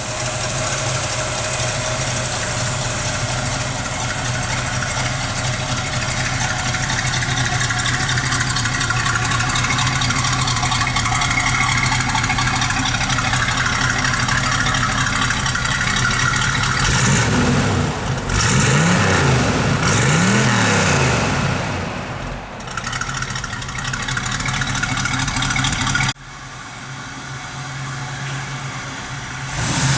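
Chevrolet 350 V8 idling steadily, blipped twice about two-thirds of the way through, rising and falling in pitch each time. Near the end the sound drops suddenly to a quieter idle.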